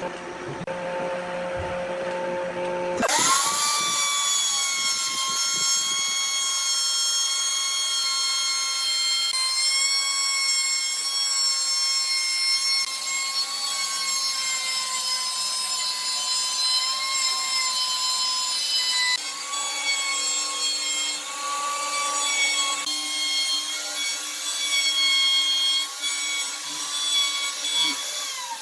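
High-speed power tool spinning up about three seconds in, running at a steady high whine as it works wood, then winding down near the end.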